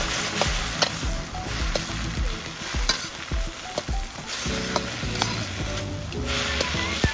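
Fried rice sizzling in a Chinese wok over a wood fire, with a metal spatula striking and scraping the wok every half second or so as it is stir-fried.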